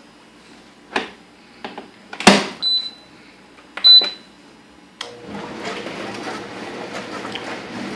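Brastemp 12-place stainless dishwasher: a few sharp knocks and clacks, two with a short high ring, then about five seconds in its motor starts with a sudden steady hum and a rush of water noise.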